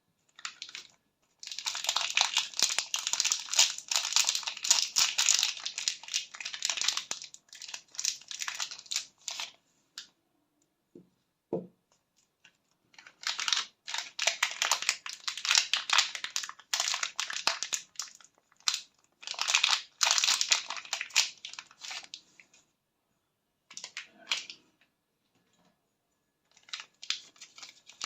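Soap bar wrappers being crinkled and torn open by hand, in long stretches of crackling with two pauses, and a short soft knock in the first pause.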